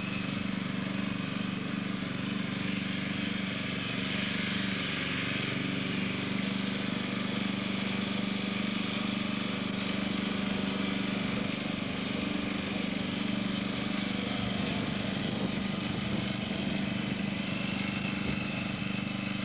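Murray riding lawn tractor's engine running steadily as it is driven, an even drone with no revving or change in speed. It runs smoothly, with no misfires.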